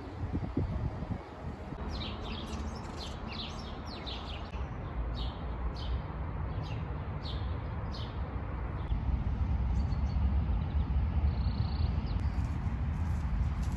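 A bird chirps repeatedly, about a dozen short high chirps between roughly two and eight seconds in, over a steady low background rumble.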